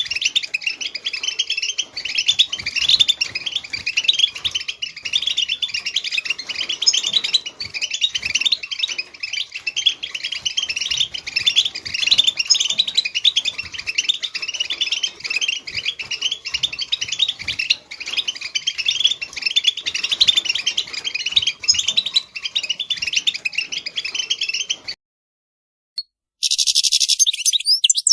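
European goldfinch twittering song, a fast, unbroken run of high chirps and trills. It stops abruptly about 25 seconds in, and after a second of silence a short burst of song returns near the end.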